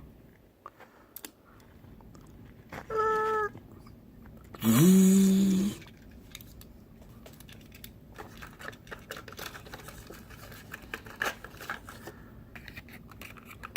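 Light clicks and small rattles of die-cast model cars and their plastic packaging being handled. About 3 s in there is a short pitched vocal-like sound, and around 5 s a louder, longer one that slides up and then holds.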